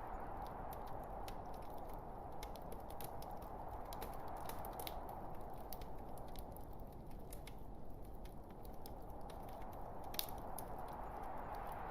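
Logs burning in a fireplace, crackling: scattered sharp pops and snaps over a steady soft hiss, with one louder pop about ten seconds in.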